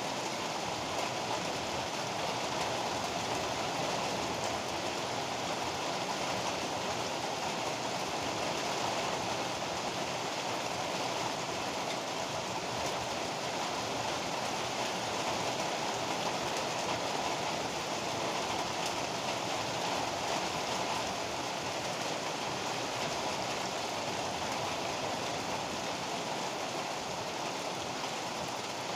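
Heavy rain pouring down steadily, an even unbroken hiss with no thunder claps.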